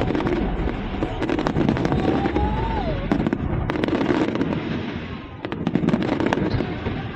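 Fireworks crackling and popping in rapid, dense succession, with a brief whistling tone near the middle.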